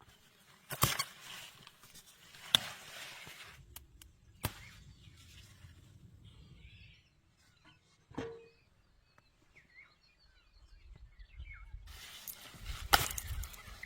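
A few sharp knocks and clatters, with faint bird chirps in the background and a louder rustle of handling near the end.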